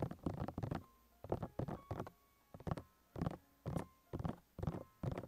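Quick strokes of an ASMR feather rod worked against a microphone, about three a second in an uneven rhythm. Each stroke is a short, quiet scratch.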